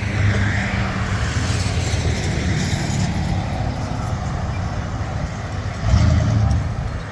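Car engine running with a deep, steady rumble, swelling louder briefly about six seconds in.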